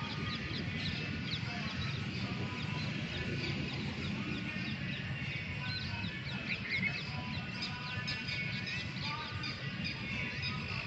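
A chorus of birds calling: many short, quick chirps overlapping throughout, over a steady low rumble.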